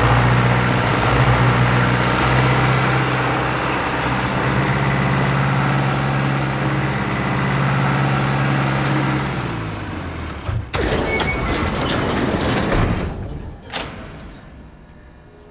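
A vehicle engine runs steadily, then its pitch falls and it dies away about two-thirds of the way through. This is followed by a few seconds of rattling, scraping noise and a single sharp clank.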